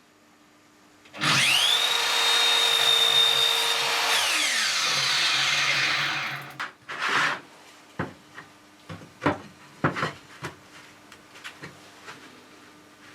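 A small electric power tool spins up with a rising whine and runs steadily for about three seconds while working material. It then winds down with a falling whine, gives one short burst, and is followed by a series of light knocks and clicks as pieces are handled.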